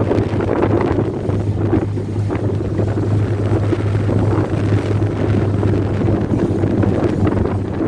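Strong wind buffeting the microphone, a dense rumble with a steady low hum underneath.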